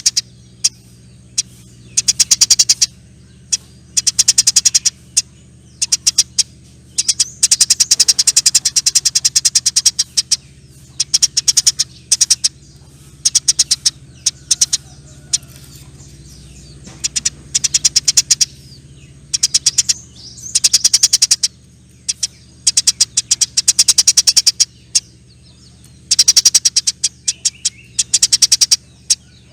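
Eurasian tree sparrows giving long, rapid chattering calls in repeated bursts of one to three seconds, with short pauses between bursts. A faint low steady hum runs underneath.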